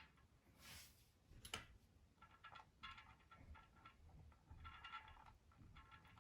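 Faint clicks and several short runs of rapid, light ticking, like small metal parts or a tool being worked by hand.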